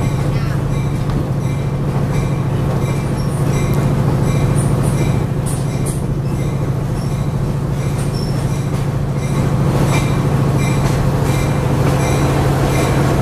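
A train running along the track, heard from an open-sided car. It makes a steady low rumble and hum, with brief high-pitched wheel squeals coming and going throughout.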